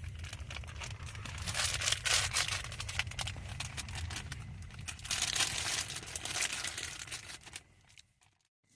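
Irregular crinkling and crackling, like plastic packaging being handled, over a low steady rumble. It comes in louder clusters about two seconds in and again around five seconds, then cuts out shortly before the end.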